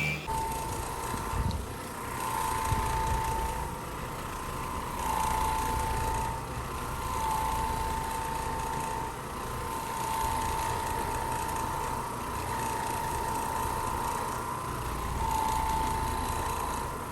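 A vacuum motor running with a steady high whine whose pitch shifts slightly up and down every second or two, over a hiss of suction and a low rumble, as it is worked back and forth over carpet.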